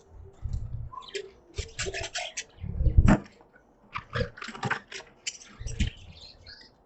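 Budgerigars chattering in quick clusters of short, scratchy chirps and clicks, with a few low thuds about half a second, three seconds and six seconds in.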